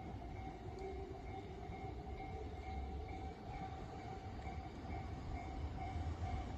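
Tobu Tojo Line electric train running past: a steady low rumble with a steady high whine over it.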